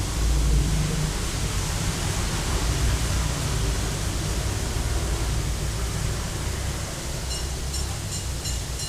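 Steady hiss of heavy rain with a low rumble underneath. Near the end a quick run of short, high ticks sounds over it.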